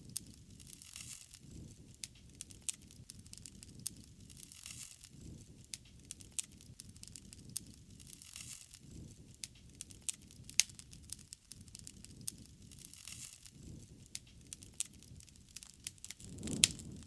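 Wood fire crackling, with frequent sharp pops over a soft low rush of flames; the loudest pops come about ten seconds in and near the end.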